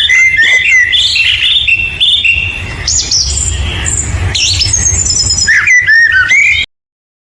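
Songbird singing a fast, varied string of chirps, whistled glides and trills over a low rumble, cutting off abruptly near the end.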